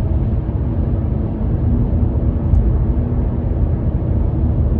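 Steady low rumble with a faint hum, loud and unbroken.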